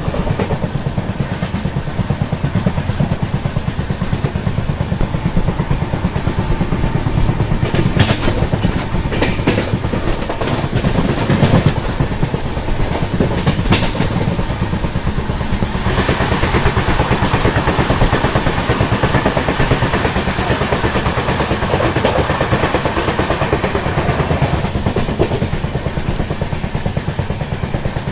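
Indian Railways passenger coach running at speed, heard from its open door: a steady clattering rumble of wheels on rail, with a few sharp clicks and a louder, brighter rush in the middle of the stretch.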